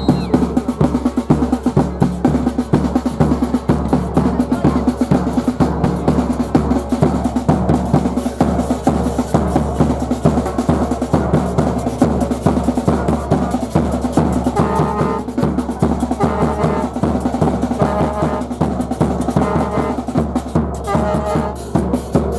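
Drums beaten in a steady, driving rhythm of about three beats a second, with a brass horn joining in short phrases from about fifteen seconds in.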